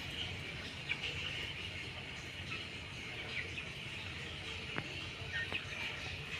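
A steady high hiss with a few short bird chirps scattered through it.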